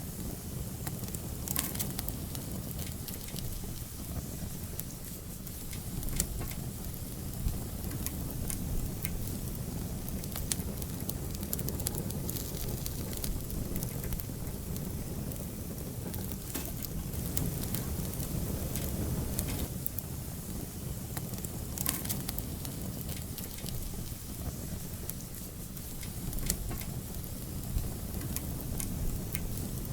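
Wood fire in an outdoor fireplace burning steadily, a low rumble of flames with scattered sharp crackles and pops.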